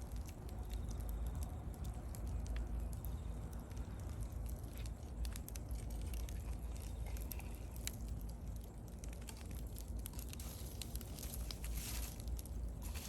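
Wood bonfire burning, with scattered sharp crackles and pops over a steady low rumble, and a short burst of hiss near the end.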